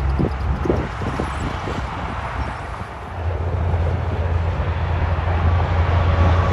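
Road traffic with a heavy truck passing: a low engine drone that fades briefly, then comes back loud and steady about three seconds in.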